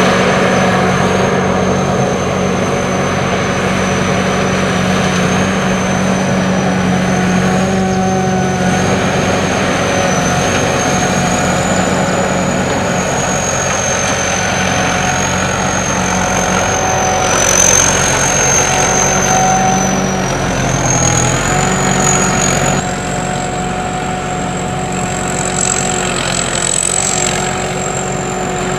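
Sakpattana SS-200 mini corn combine harvester running: a steady engine drone with a high, thin whine from its machinery that drifts in pitch and steps up slightly about three quarters of the way through.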